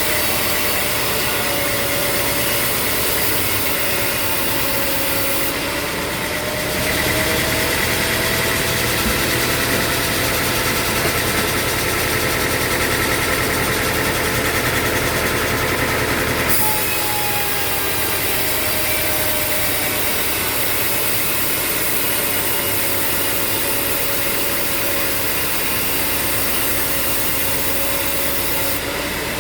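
Sawmill machinery running steadily: an engine-driven hum with a faint drifting whine and no cutting strokes. The sound changes abruptly twice, about seven and sixteen seconds in.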